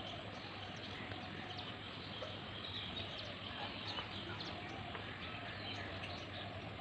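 Outdoor background noise with scattered short bird chirps and a steady low hum.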